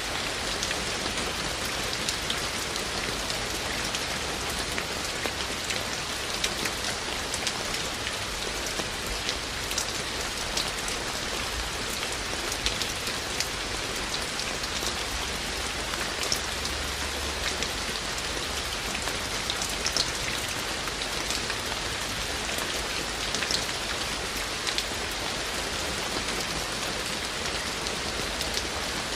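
Steady rain falling, with a constant hiss and many individual raindrops ticking sharply on nearby surfaces.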